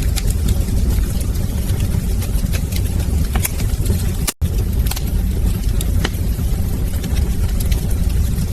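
Wood fire crackling in a fireplace: a steady low rumble of the flames with irregular sharp pops and snaps. The sound cuts out for a split second about four seconds in.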